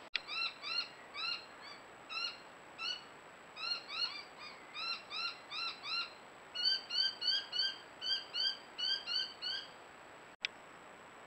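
A bird calling over and over in a long series of short rising notes, about two or three a second, coming a little faster and louder after about six and a half seconds. A sharp click near the end.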